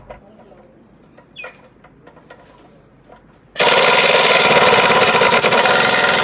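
A few faint clicks and knocks, then, about three and a half seconds in, a loud noisy machine sound that starts suddenly, runs for about three seconds and cuts off abruptly.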